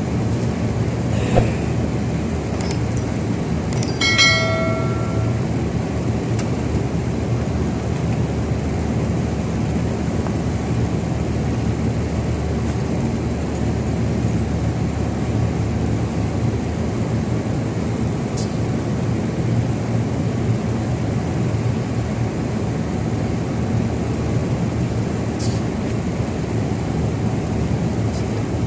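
A reaper's engine running steadily, with a single sharp knock about a second and a half in and a brief ringing tone around four seconds in.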